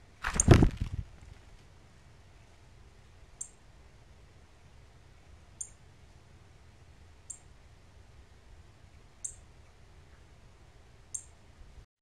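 A northern cardinal takes off from the seed tray close to the microphone about half a second in, a brief loud flutter of wings. Five sharp, high chip notes follow, spaced about two seconds apart.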